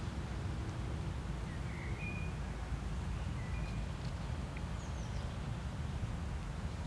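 Outdoor ambience: a steady low rumble with a few short, high bird chirps scattered through it, mostly between about one and a half and five seconds in.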